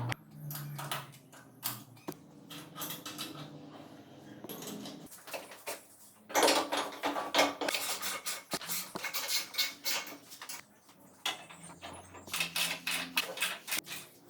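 Irregular metallic clanking and tapping, bunched in two busy spells about six and twelve seconds in, as of metal parts or tools being handled.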